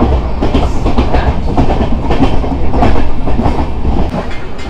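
Jammu Mail passenger train running at speed, heard from an open coach window: a loud steady rumble with the wheels clattering over the rail joints.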